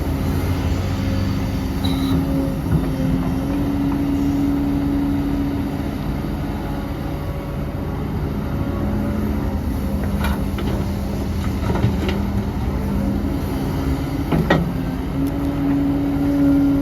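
Heavy diesel earthmoving machinery running, its engine note rising and falling with the load, with a few sharp metallic clanks in the second half.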